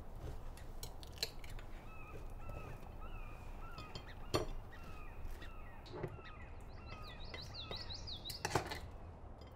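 Birds calling: a run of short chirping notes repeated every half second or so, joined by a faster warbling trill about three-quarters of the way through. A few sharp knocks sound over them, the loudest about four seconds in and again near the end.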